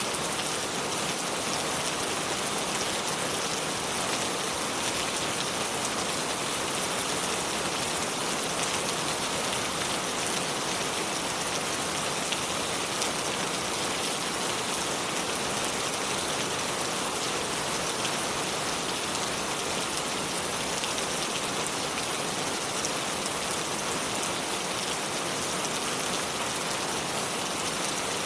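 Steady, even hiss of splashing water with a fine crackle of small drops.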